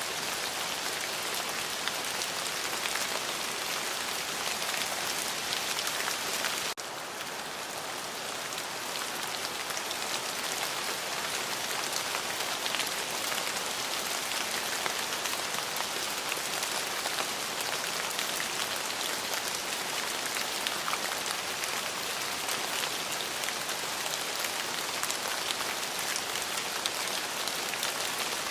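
Steady heavy rain, a dense hiss of drops falling on a surface. About seven seconds in the level drops suddenly a little, then slowly builds back.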